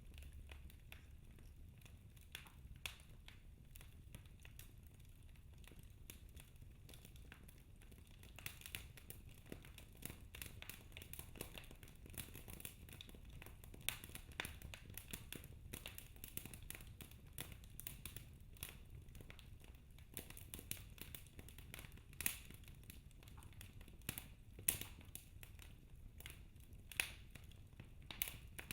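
Wood fire crackling, with irregular sharp pops that come more often after the first several seconds, over a faint low rumble.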